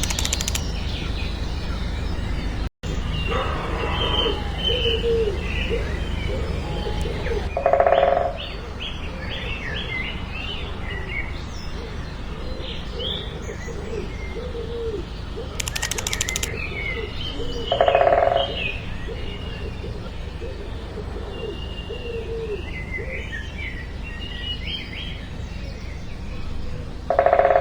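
Birds chirping and cooing, with many short high chirps over lower repeated calls and a steady low hum underneath. A louder call stands out three times, about ten seconds apart.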